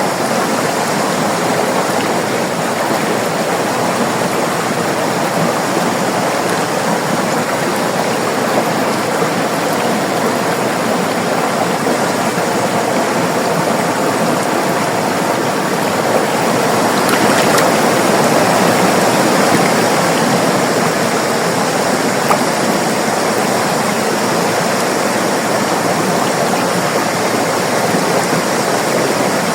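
River water flowing over rocks: a steady rushing and gurgling, a little louder for a few seconds just past the middle.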